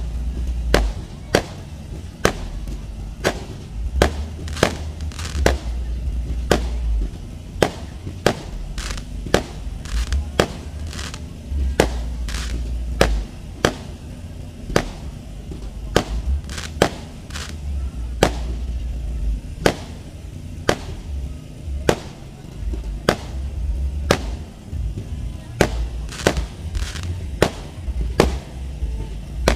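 Aerial fireworks bursting in the night sky: a long, irregular run of sharp bangs, one or two a second, over a low rumble.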